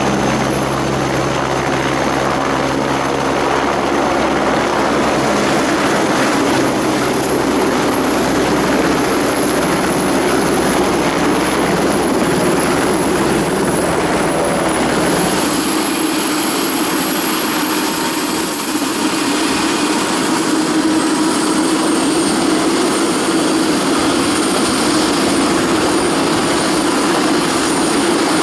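Steady aircraft engine and propeller noise, running continuously, with its deep low hum dropping away about halfway through.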